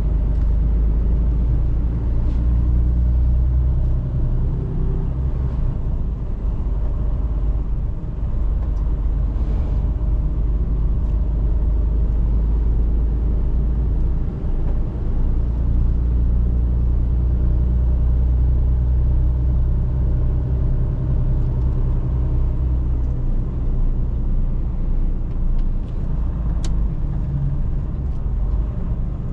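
Mercedes-Benz Actros truck's diesel engine running under way, a steady low drone that shifts pitch a few times as the truck is driven. A single short tick comes near the end.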